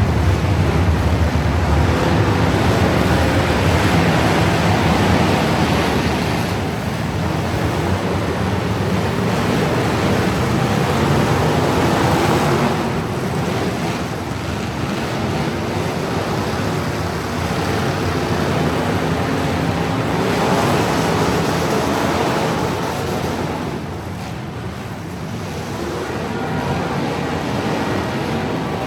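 Truck engines running hard, a loud continuous rumble that swells and eases in waves over several seconds, with wind buffeting the microphone.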